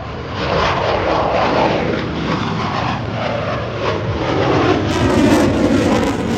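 Jet noise from F-16 Fighting Falcons flying past, loud and dense, swelling just after the start.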